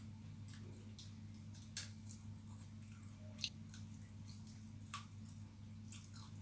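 Someone eating pigeon with chilies, with wet mouth clicks and small crunches from chewing, three of them sharper, over a steady low electrical hum.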